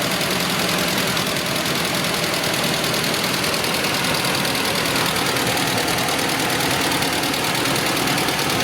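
Toyota 2TR 2.7-litre four-cylinder petrol engine running at idle just after a top-end reassembly, with a fast steady ticking clatter over the engine note. The repair followed oil starvation of the camshaft journals.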